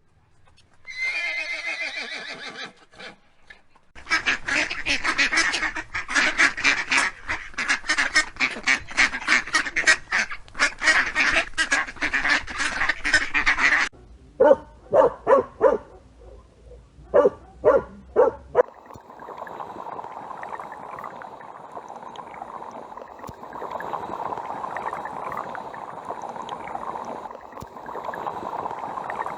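Farm waterfowl calling. After a short pitched call, a flock quacks and honks in a dense, rapid stream for about ten seconds, followed by a handful of separate loud honks. The calls then give way to a steady rushing noise.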